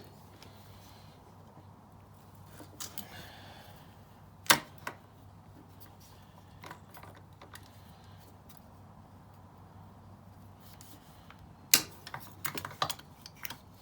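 Scattered sharp metallic clicks and clinks of locking pliers (vice grips) being fitted and clamped onto a stripped brake caliper bolt, loudest near the end with a quick run of clicks, over a steady low hum.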